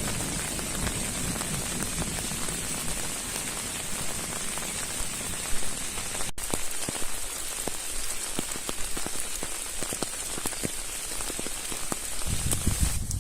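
Steady heavy rain, with many individual drops ticking on a surface.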